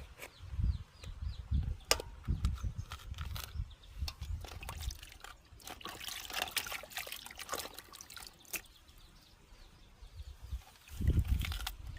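Water trickling and splashing, with scattered clicks and low thuds.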